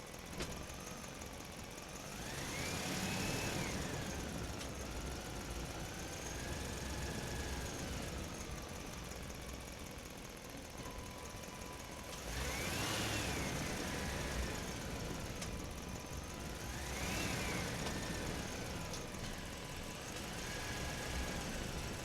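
Toy fire truck's small motor whining. It rises and falls in pitch three times over a steady mechanical hum.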